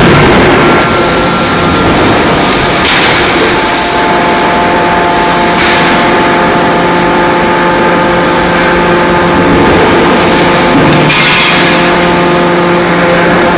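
Loud, continuous machinery noise from a CNC closed die forging hammer and its forge shop, with steady hum tones under a hiss that brightens and dulls every few seconds.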